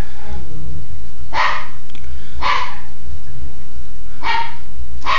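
Maltese puppy barking in play: four short barks about a second apart, over a constant low rumble.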